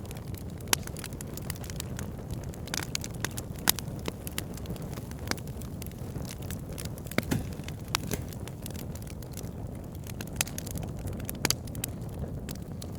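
Wood fire burning: a steady low rumble of flames with frequent sharp crackles and pops from the burning logs, irregularly spaced.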